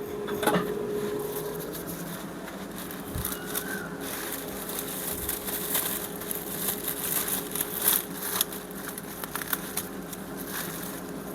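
Plastic oven cooking bag being torn and cut open and handled, with irregular crinkling and crackling rustles, over a faint steady hum.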